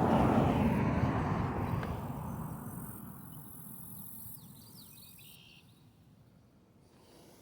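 A car passing on the nearby road, loudest about a second in, its tyre and engine noise then fading steadily over several seconds as it moves away. A few faint bird or insect chirps come through as it fades.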